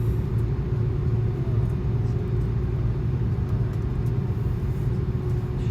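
Steady low rumble inside the cabin of an Airbus A330-200 airliner, from its Rolls-Royce Trent 700 engines and the airframe, with a faint steady hum above it.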